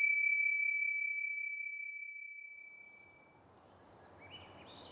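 A struck metal chime rings with one clear high tone and fades away slowly over about three seconds. Faint rural outdoor ambience then comes up, with a few faint chirps near the end.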